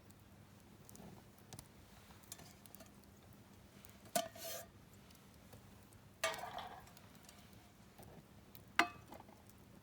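Camp cookware and utensils clinking: three sharp clinks a couple of seconds apart, the first two ringing briefly, with faint clicks and small handling noises between.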